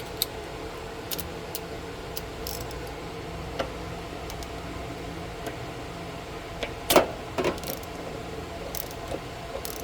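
Light metallic clicks and taps of a socket and extension on the new anode rod as it is threaded by hand into the water heater tank, with one sharper clack about seven seconds in. A steady low hum runs underneath.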